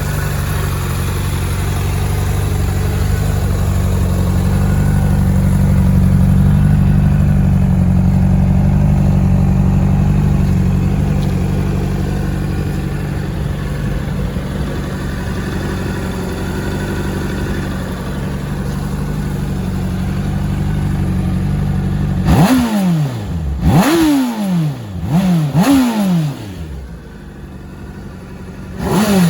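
A 2007 Honda CBR600RR's 599cc inline-four idles steadily for about twenty seconds. It then gets four quick throttle blips within about three seconds, each revving sharply and falling back to idle, and a fifth blip right at the end.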